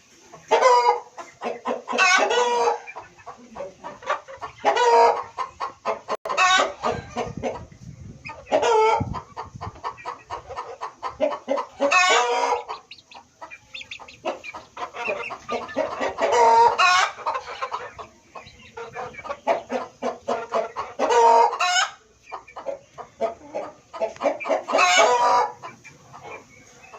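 A flock of country chickens clucking steadily, with loud drawn-out calls or crows breaking out every few seconds.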